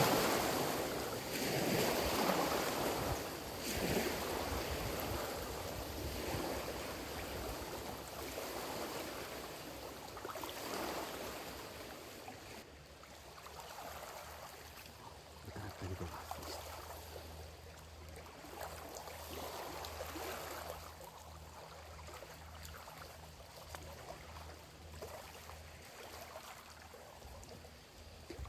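Small waves washing in on a lakeshore in repeated swells every couple of seconds, louder at first and easing off. A low steady hum joins in after about sixteen seconds.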